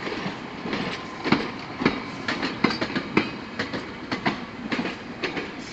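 GO Transit commuter train's wheels clacking over rail joints as the train pulls out, an uneven run of sharp clacks over the steady rumble of the passing cars.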